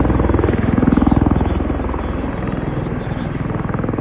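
MV-22 Osprey tiltrotor's proprotors and turboshaft engines running, a rapid, even rotor beat over engine noise, loudest in the first second and a half and then easing a little.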